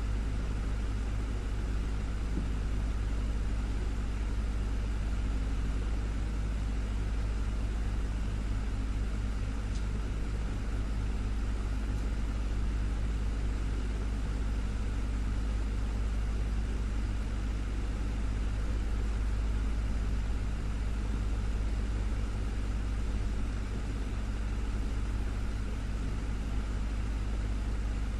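Desktop electric fan running steadily: a constant low motor hum under an even rush of air from the blades.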